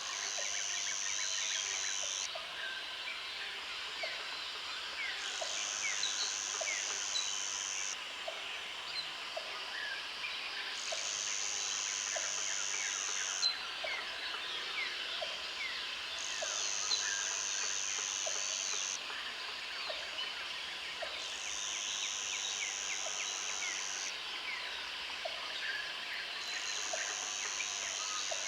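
Countryside ambience of many birds calling and chirping at once, with a high buzz that swells in for two or three seconds about every five seconds and faint ticks about once a second.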